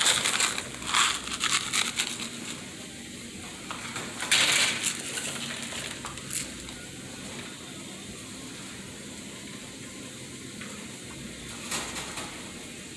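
Short rustles and clatters as a dove cage and its seed are handled, several in the first second and a half and the loudest about four and a half seconds in, then only a few faint noises.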